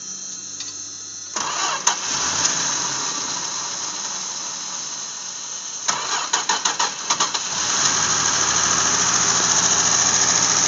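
Dodge slant-six engine, primed with starting fluid, being cranked by the starter; it sputters with a run of quick uneven firing pulses, then catches about eight seconds in and keeps running steadily.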